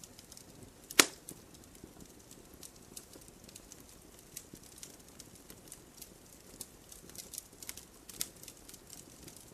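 Fireplace fire crackling: a scatter of small, sharp ticks and snaps over a soft low hiss, with one loud pop about a second in.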